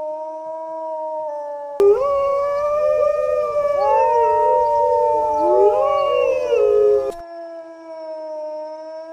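Canine howling: one long, steady howl, then several howls overlapping in a chorus that rise and fall in pitch, then a single long howl again near the end.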